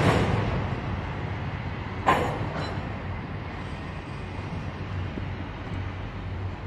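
Freight train of empty intermodal well cars rolling past: a steady rumble of wheels on rail, with sharp bangs at the start and about two seconds in.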